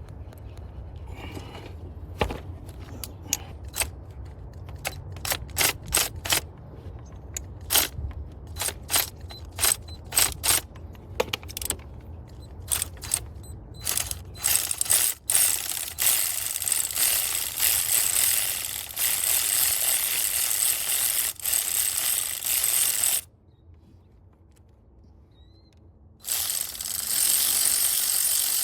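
Socket ratchet turning out the cylinder 6 spark plug on a 2009 Chrysler Town & Country minivan engine: separate pawl clicks with short pauses at first, then fast, continuous ratcheting from about halfway as the plug spins out. The clicking stops for a few seconds near the end, then resumes.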